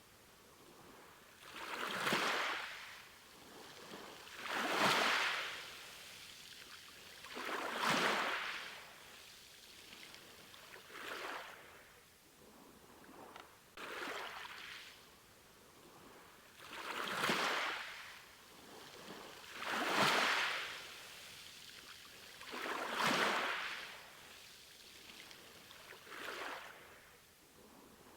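Small ocean waves washing onto a shore, each one a hissing surge that builds and fades, coming about every three seconds.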